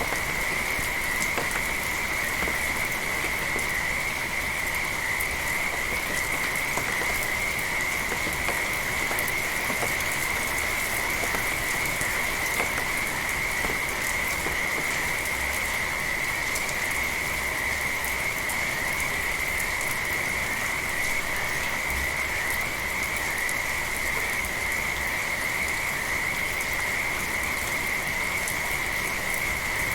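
A continuous chorus of frogs calling in a steady high-pitched band, over an even hiss of light rain with scattered drops.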